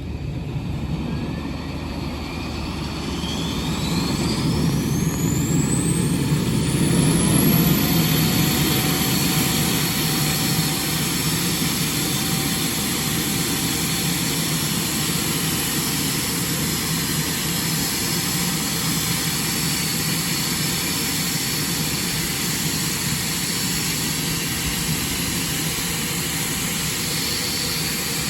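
Jet engine of the Hawker Siddeley Nimrod (a Rolls-Royce Spey turbofan) spooling up on start. A whine rises steeply in pitch over the first several seconds under a swelling rumble, then settles into a steady high whine and rumble as the engine runs up.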